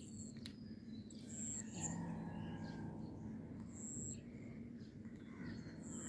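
Faint, short, high-pitched bird chirps now and then over a low steady hum, with a low drone for about a second and a half starting around two seconds in.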